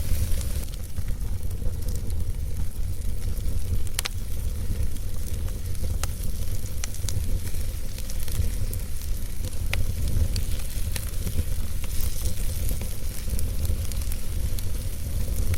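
Wood fire burning in a fireplace: a steady low rumble of flame with a faint hiss, broken by scattered sharp crackles and pops of the burning logs, one of the clearest about four seconds in.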